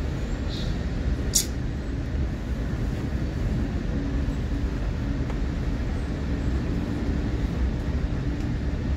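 Steady low rumble of a moving passenger train heard from inside the coach, with one sharp click about a second and a half in.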